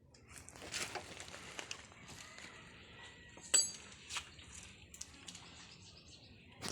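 Metal parts and tools being handled: scattered light knocks and clicks, with one ringing metallic clink about three and a half seconds in.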